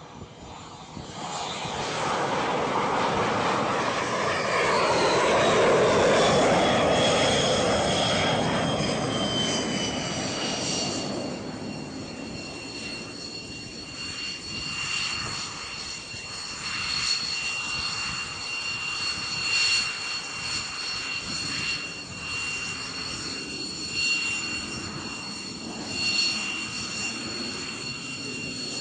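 Jet aircraft engine growing loud as it passes, its high whine gliding down in pitch over the first ten seconds or so. The rush then eases and the whine settles to a steady pitch.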